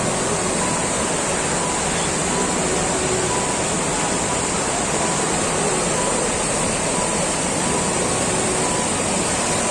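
Steady roar of rushing water from a waterfall, an even noise that holds at a constant level.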